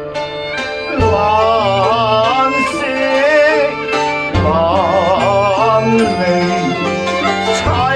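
Instrumental passage of Cantonese opera song accompaniment: a bowed string instrument plays a melody with heavy vibrato over a steady lower backing, in two phrases, the second starting about halfway through.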